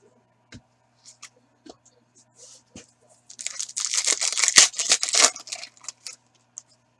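A trading-card pack wrapper being torn open and crinkled, after a few light clicks and taps from cards being handled. The tearing and crinkling runs for about two seconds in the middle and is the loudest sound.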